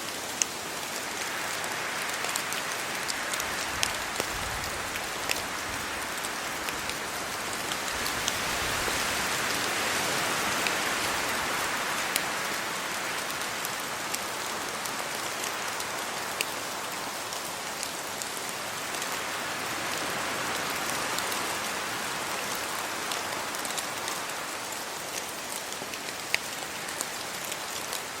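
Steady rain falling, with scattered sharp drops ticking close by. The hiss swells and eases every several seconds as wind moves through the trees' leaves.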